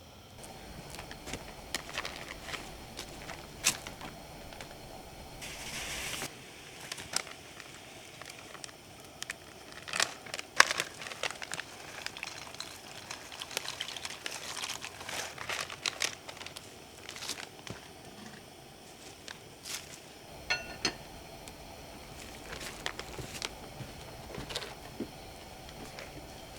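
Wood fire crackling, with irregular sharp pops and clicks and a brief hiss about six seconds in.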